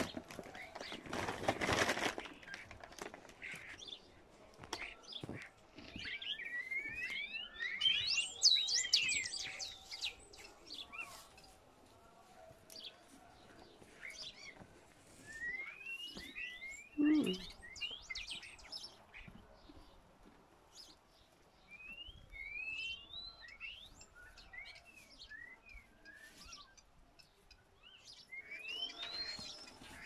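Small birds chirping and twittering in several bursts of quick rising and falling notes, over the crunching of donkeys eating straw. A brief low falling sound comes about halfway through.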